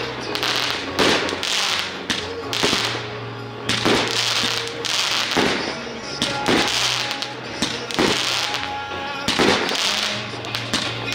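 Fireworks going off: a sharp bang roughly every second, each trailing off in a brief hiss, over background music.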